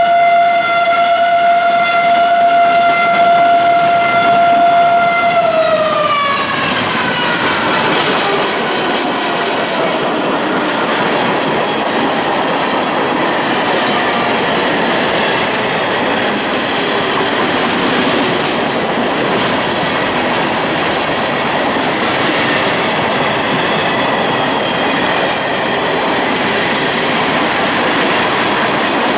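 Train horn sounding one steady held blast that drops in pitch about six seconds in as the locomotive passes, followed by the train rolling by: a steady rush of wheels on rail with clacking over the joints.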